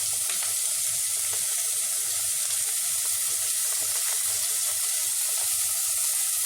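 Grated carrot, bell pepper and peas sizzling steadily in hot ghee in a pot, just after going in.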